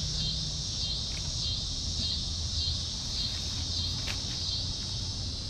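Night insects chirring in a steady chorus that pulses evenly, a little under two swells a second, over a low background hum.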